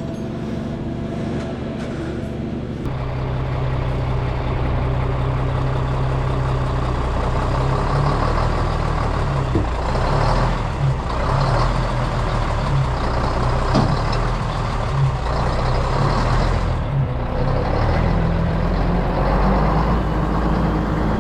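An engine running steadily, growing louder and fuller about three seconds in, then holding with small rises and falls.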